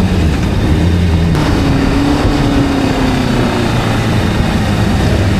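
Motorcycle engine running steadily, its pitch drifting slightly.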